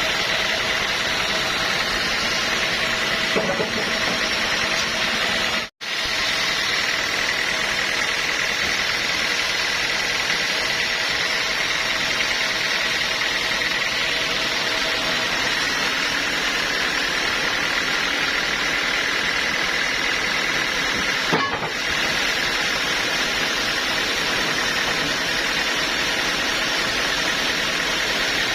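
Sawmill machinery running steadily, a constant mechanical noise with a high whine over it. The sound breaks off for an instant about six seconds in.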